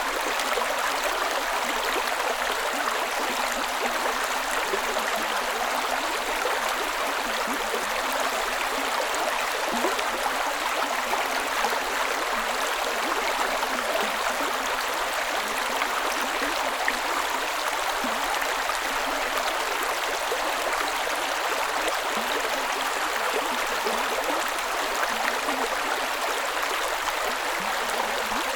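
A creek running steadily over rocks: continuous rushing and babbling water with small gurgles.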